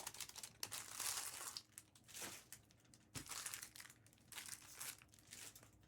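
Foil wrappers of Panini Optic trading-card packs crinkling and tearing as the packs are opened, in a series of short rustling bursts with brief pauses between.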